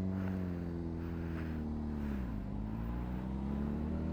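Honda CBR600RR's inline-four engine pulling steadily under way. Its pitch drops sharply once at a gear change a little past halfway, then climbs again.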